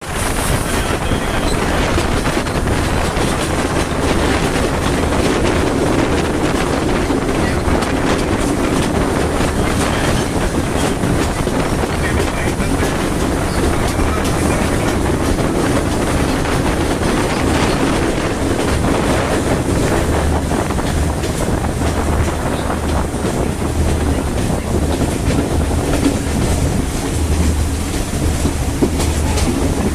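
Passenger train running along the track: a steady rumble and hum, with the wheels clacking over rail joints.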